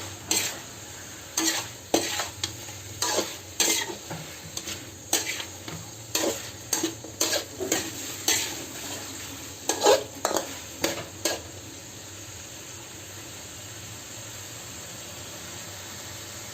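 Chicken and pineapple stir-frying in a hot pan, sizzling, while a utensil scrapes and clanks against the pan in irregular strokes. The stirring stops about 11 seconds in, leaving a steady sizzle.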